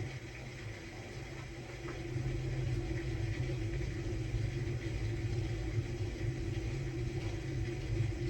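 Samsung Bespoke Grande washing machine running its quick-wash course, a steady low motor hum that gets a little louder about two seconds in.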